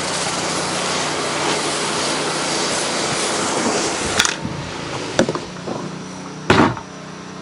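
Low-pressure pressure washer spray hissing steadily onto a painted wood deck, then cutting off about four seconds in. The pressure washer's engine keeps running underneath, with a few sharp clicks after the spray stops.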